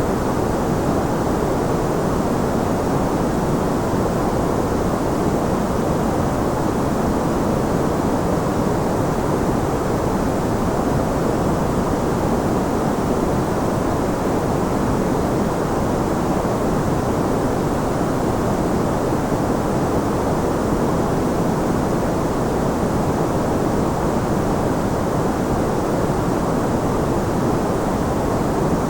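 Steady white-noise track: an even, unbroken rushing hiss, deep rather than bright, with most of its weight low and little at the top. It doesn't change throughout.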